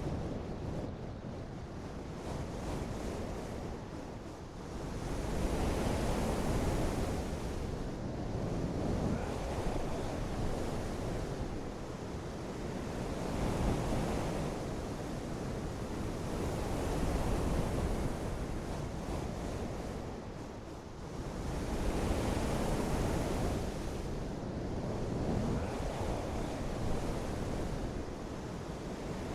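Continuous rushing of wind and water, swelling and easing every few seconds.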